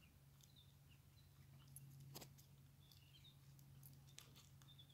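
Near silence with a few faint, short, high bird chirps scattered through it, over a faint steady low hum.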